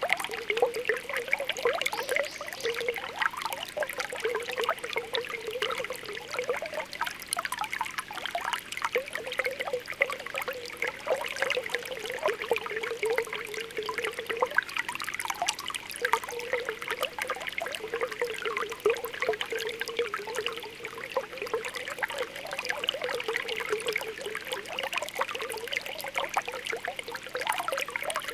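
Spring water welling up from the ground with a continuous bubbling, popping trickle: many small pops over a low, wavering gurgle that breaks off briefly about halfway through.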